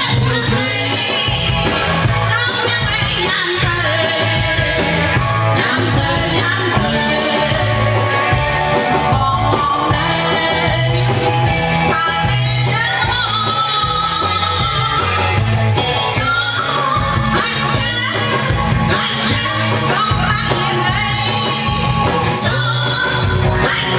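Amplified band music with a singer: a sung melody over electric guitar, bass and a steady beat.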